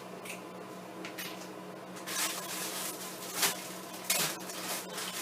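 A utensil stirring and scraping around a bowl of half-melted mini chocolate chips, with a couple of sharp clinks against the bowl. It is quiet for the first two seconds apart from light taps, then turns to scraping.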